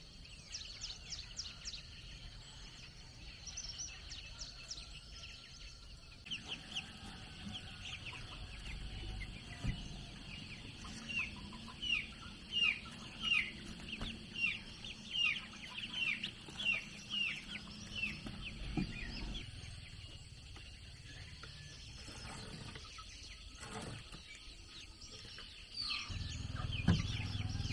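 Chickens calling: a run of short, high, falling peeps, about two a second, for several seconds in the middle, with a low rumbling noise coming up near the end.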